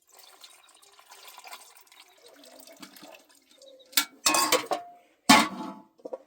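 Water running and splashing, then three loud, short, sudden sounds in the last two seconds.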